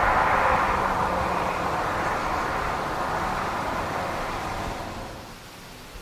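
Corvette C6 Victory Edition's LS2 6.0-litre V8 running after a hard acceleration, its sound fading steadily and dropping away about five seconds in.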